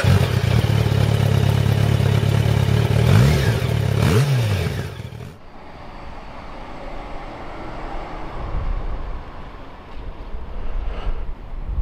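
Yamaha FZ1's inline-four engine idling just after starting, blipped twice so the pitch rises and falls about three and four seconds in. About five seconds in the sound turns abruptly quieter and duller, with the engine still running.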